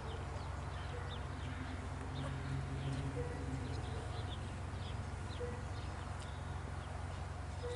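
Small birds chirping in short, scattered high notes over a steady low hum.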